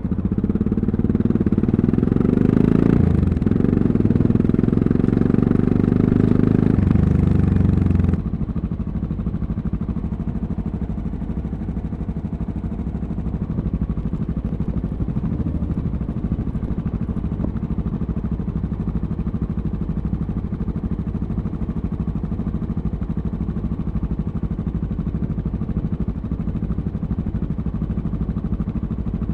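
Yamaha MT-03's 660 cc single-cylinder engine under throttle for about eight seconds, with a short break about three seconds in like a gear change. Then the throttle is shut suddenly and the engine runs on quieter and steady.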